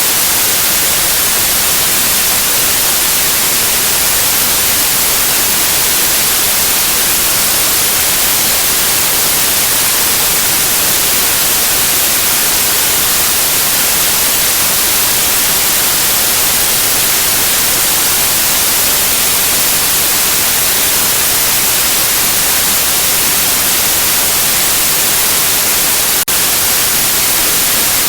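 Steady electronic white noise, an even, hiss-heavy static, with a split-second dip in level near the end.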